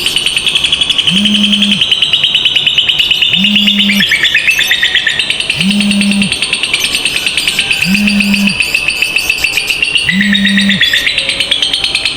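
Lovebirds 'ngekek panjang': a long, unbroken, rapid high-pitched chattering trill that dips lower in pitch briefly twice. Under it, a short low hum pulses about every two seconds.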